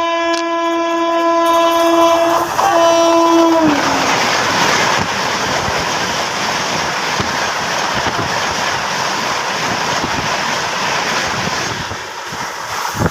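A passing train: its horn sounds one long steady blast that dips in pitch as it stops about four seconds in. After that come loud rushing and the clatter of wheels over rail joints, which fade near the end.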